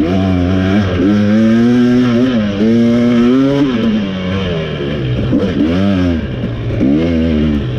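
2023 KTM 300 XC's single-cylinder two-stroke engine revving under throttle. It climbs and holds a high rev for a couple of seconds, drops back about four seconds in, then rises and falls in several short throttle blips.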